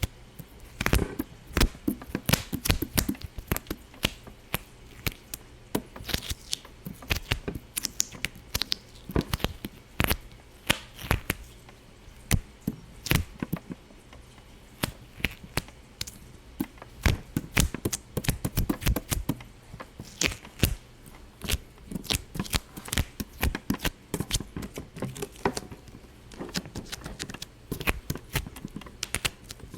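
A continuous run of sharp, irregular pops and clicks, a few to several a second, some clustered in quick bursts.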